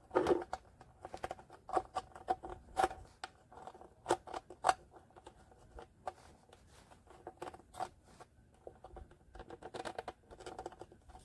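Small tabletop rockery fountain running, its water trickling and splashing in an irregular patter of small drips and plops.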